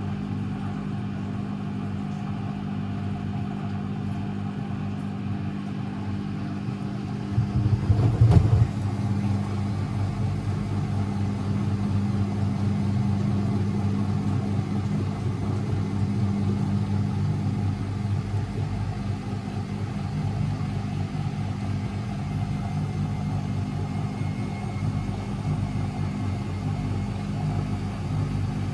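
Constructa Energy 1000s washing machine running with a steady motor drone, broken by a brief louder knocking burst about eight seconds in, after which it runs on a little louder.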